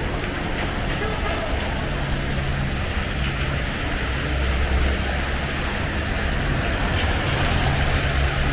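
Steady city street traffic noise, with the low hum of vehicle engines running close by that rises and falls a couple of times.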